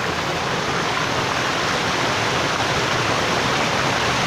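Waterfall rushing steadily: a constant, full roar of falling water with no breaks.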